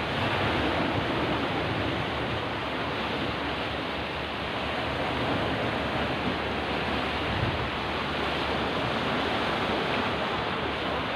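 Steady rushing noise of rough sea surf and wind, with no distinct breaks or strikes.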